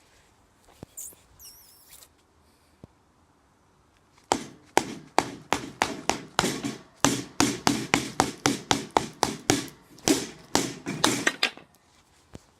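A hoover pole beating a cardboard box in a rapid run of hard strikes, about four a second. The strikes start about four seconds in and stop shortly before the end.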